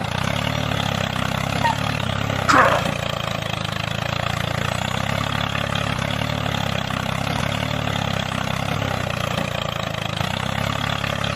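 A motor running steadily at an even pitch, like an engine at idle, with a short falling swoosh about two and a half seconds in.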